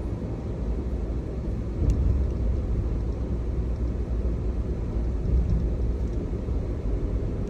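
Low rumble of a car on the move, with a single sharp knock about two seconds in.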